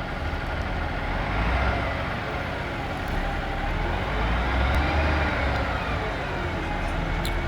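Cummins NTC-400 six-cylinder turbo diesel of a 1988 Peterbilt 379 crane truck running, its pitch slowly rising and falling, highest about four to five seconds in.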